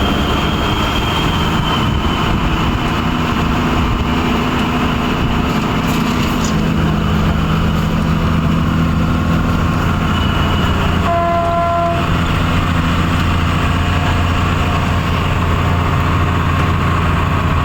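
Truck's diesel engine running steadily under way, with road noise. A horn sounds briefly about eleven seconds in.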